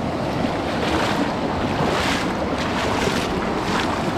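Steady rush of flowing mountain-stream water with wind buffeting the microphone, swelling briefly a few times about a second apart.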